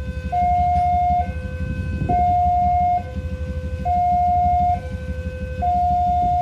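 Two-tone warning siren alternating high and low, about one note a second, over a steady low rumble.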